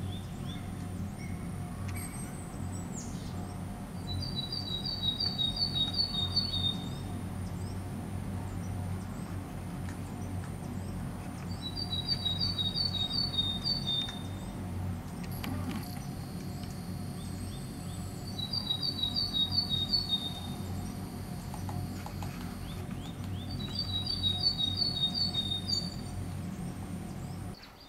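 A small songbird singing the same short song four times, each a quick run of repeated two-note phrases lasting about two seconds, with long pauses in between. A steady low hum runs underneath.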